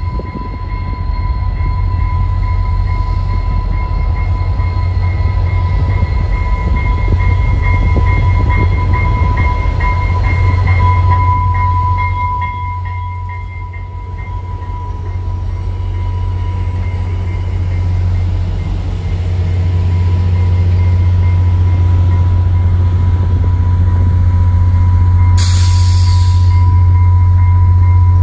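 VIA Rail passenger train arriving: the F40PH diesel locomotive's engine drones loudly as it passes close, and the wheels give a steady high squeal as the coaches roll by. Near the end comes a short burst of hiss lasting about a second.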